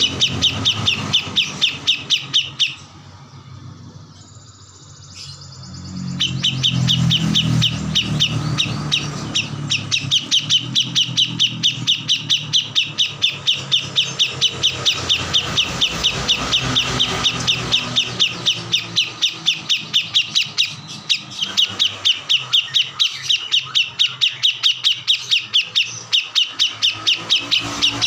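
A kores songbird singing a long run of quick, evenly repeated high chirps, several a second, with a pause of about three seconds near the start. This is the bird's full, energetic 'gacor' song used as masteran for training other songbirds.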